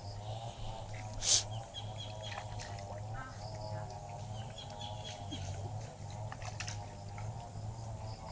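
Faint bird chirps over a steady low background hum, with one sharp knock about a second in.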